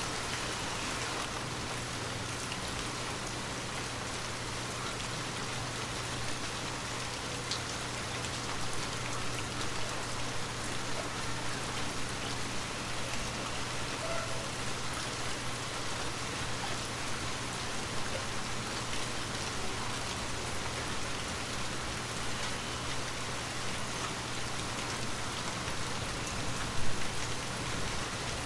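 Steady rain pattering on a window, with scattered single drops standing out and a brief louder spell near the end.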